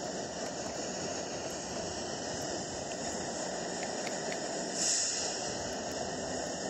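A passing train's steady rolling noise, with a short hiss about five seconds in.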